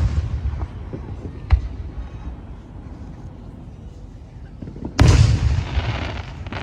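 Fireworks exploding: the dying rumble of one boom, a sharp bang about a second and a half in, and a big boom about five seconds in that rumbles away over a second or so.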